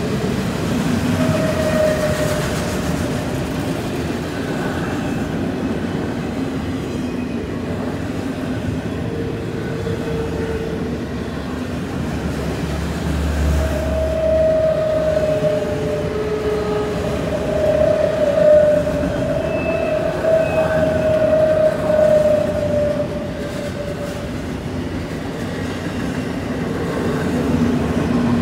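Freight train of autorack cars rolling slowly past on a curve: a steady rumble and rattle of steel wheels on rail. Drawn-out squealing tones come and go from the wheels on the curve, longest in the second half.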